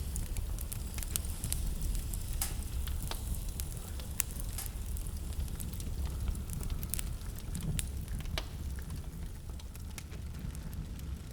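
Wood fire burning in a fireplace, with irregular sharp crackles and pops, over a steady low rumble of wind.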